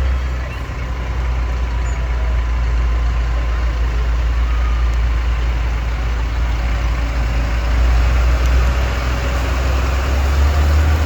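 Tractor engines in a parade running steadily with a deep, even drone.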